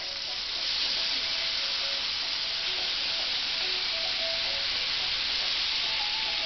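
Thick pork chops frying in hot oil in a cast-iron skillet: a loud, steady sizzle that swells about a second in as a chop is handled and turned with metal tongs.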